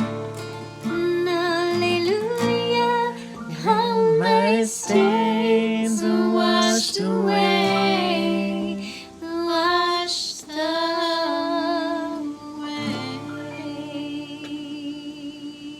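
A praise band's closing bars: women's voices singing over guitar, ending on a long held note with vibrato that fades out at the very end.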